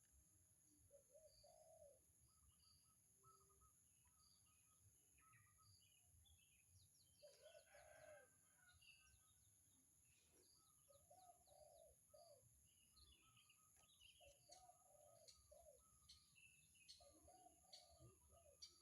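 Faint birds calling: repeated low, arched cooing notes and higher scattered chirps and twitters, over two steady high-pitched tones.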